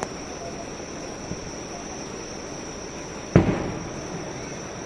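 Fireworks shells bursting in the sky: a faint thud about a second in, then a single loud boom about three and a half seconds in that rumbles away. A steady high insect chirring runs underneath.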